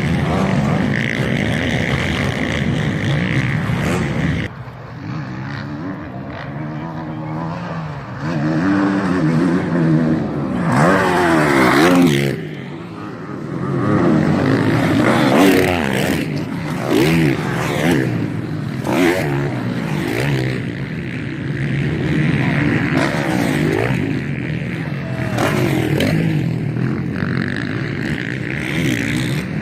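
Several MX1-class motocross bikes racing, their engines revving up and falling away again and again as riders accelerate, shift and pass. The loudest pass comes about twelve seconds in.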